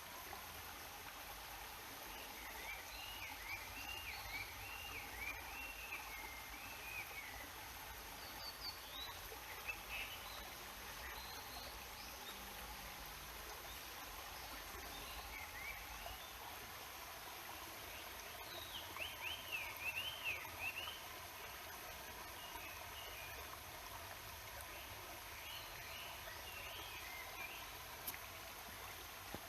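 Mountain stream flowing with a steady murmur, while small birds sing short warbling phrases on and off, most clearly early on and about two-thirds of the way through.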